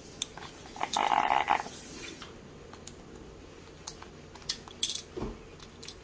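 Amazon parrot's beak handling small plastic Lego bricks: scattered light clicks and taps, with a short rasping burst about a second in and a few more clicks near the end.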